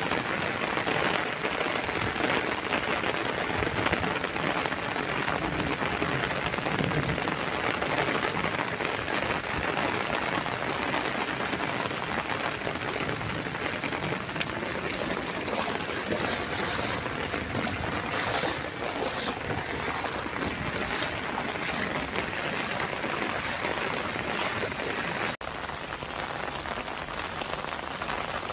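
Heavy rain pouring down, a dense steady hiss of water, cutting abruptly to another stretch of rain near the end.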